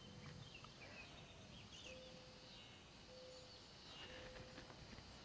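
Faint outdoor quiet with scattered soft bird chirps and four short, even, low notes about a second apart.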